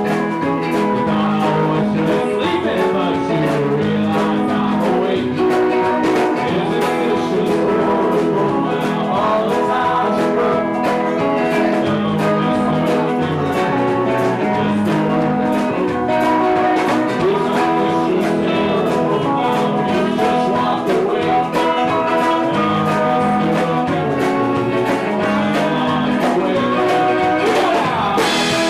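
Live band playing a guitar-led song, with some singing.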